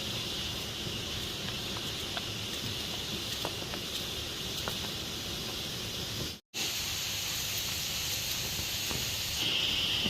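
Steady rushing of a waterfall, with a constant high hiss over it and a few faint ticks. The sound drops out for a split second about six and a half seconds in.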